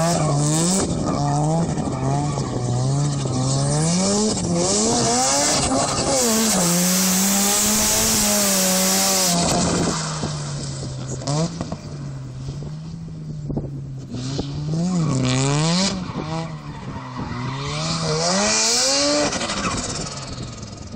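Mazda RX-7's rotary engine revving up and down hard as the car drifts, with tyres squealing. The engine grows fainter about halfway through as the car pulls away, then surges loud again near the end.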